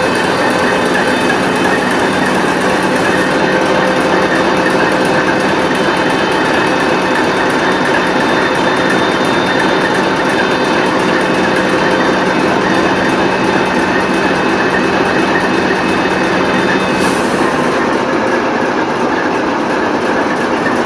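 TEP70 diesel locomotive running on the move, its 16-cylinder turbocharged diesel giving a loud, steady drone with constant whining tones. About seventeen seconds in there is a brief hiss and part of the low hum drops away.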